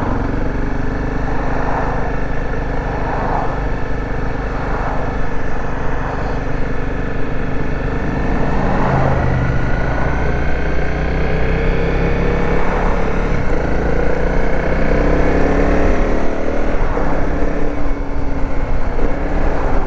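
Dirt bike engine running under way, recorded from the bike. From about halfway through, the engine note climbs steadily in pitch as the bike accelerates.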